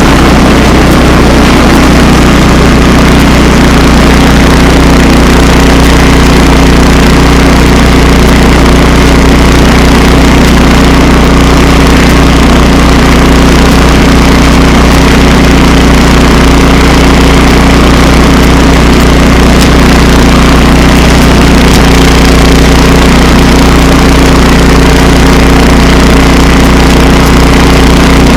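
Tractor engine running loud and steady at an unchanging speed while plowing snow.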